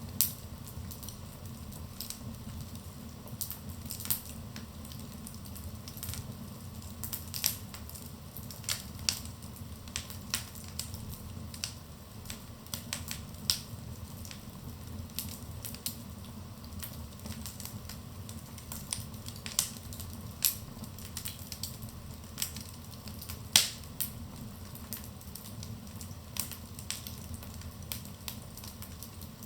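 Wood fire in a fireplace burning with a steady low rumble and irregular crackling, sharp pops every second or so and one louder pop a little past the middle.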